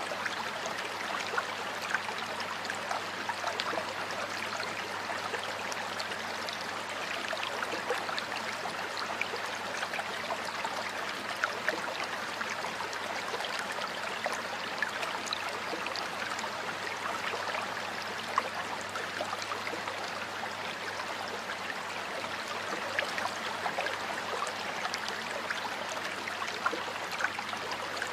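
Water of a small stream flowing steadily over rocks, a continuous rushing with many small splashes and trickles.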